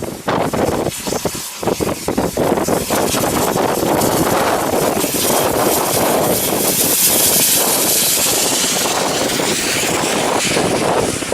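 Steam locomotive passing close at speed: rapid exhaust beats run together into a loud rushing noise of the train going by, with a swirling hiss at its loudest about two-thirds of the way through.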